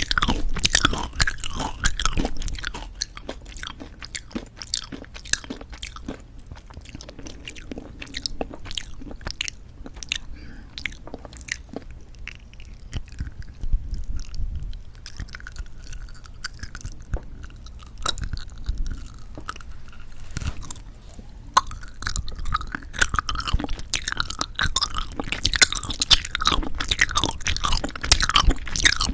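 Close-miked chewing of jelly candies: many small, sharp, wet clicks, busier and louder at the start and again from about three-quarters through, sparser in between.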